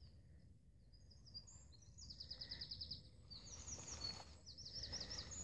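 Faint songbird trills: quick runs of high chirps, about ten a second, starting about two seconds in and coming again from about three and a half seconds.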